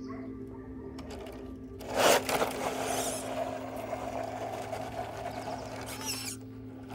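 RC crawler truck's small electric motor and drivetrain gears whirring as it crawls over the trail, starting with a sudden scrape or knock about two seconds in and stopping a little after six seconds.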